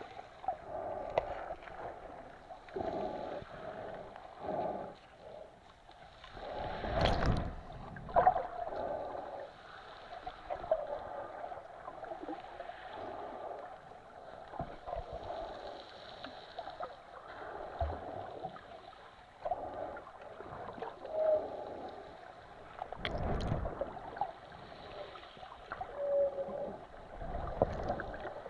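Mediterranean Sea water lapping and gurgling, with a few louder surges about a quarter of the way in and twice near the end.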